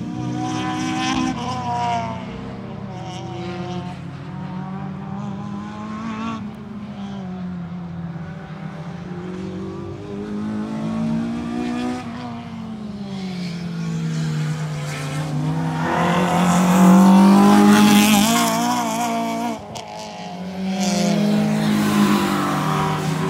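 Acura RSX's K24 four-cylinder engine lapping a track, repeatedly revving up and dropping back in pitch through the gears and corners. It is loudest as the car passes close, about two-thirds of the way in, then drops away briefly and climbs again.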